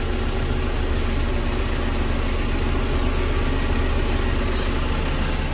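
John Deere 5M tractor's diesel engine running steadily at low revs.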